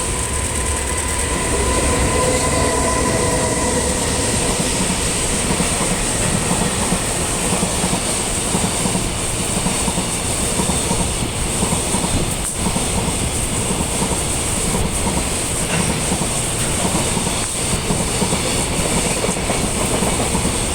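JR Freight EH500 'Kintaro' electric locomotive hauling a train of empty Koki container wagons past at speed. A few steady whining tones sound during the first few seconds and fade, then the continuous rumble and clatter of the wagons' wheels on the rails, with scattered sharp clicks.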